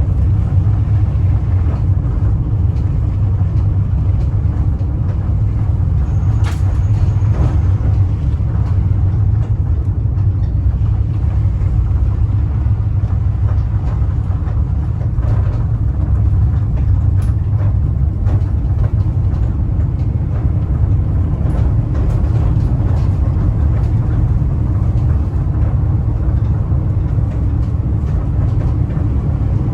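Steady low rumble of a Ram ProMaster van driving, heard from inside the cabin: engine and road noise at an even level.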